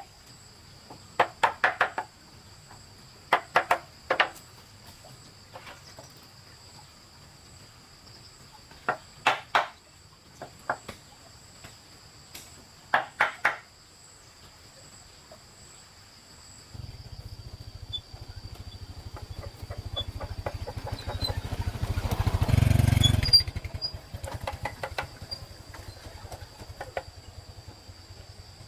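Hand-tool blows on wood in quick groups of two or three, every second or few, through the first half. A small engine then comes in, grows to its loudest a little past the middle, and fades. A steady high insect drone runs underneath throughout.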